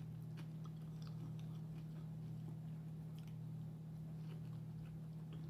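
A person chewing a mouthful of food: faint, scattered small mouth clicks and smacks over a steady low hum.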